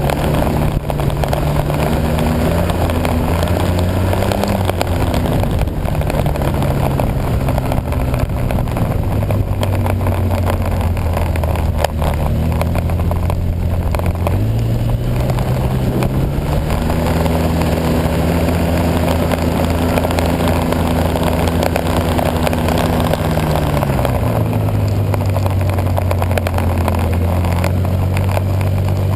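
Snowmobile engine running under way. Its pitch drops and settles, climbs about fourteen seconds in, and drops again near the end, over a steady rushing noise.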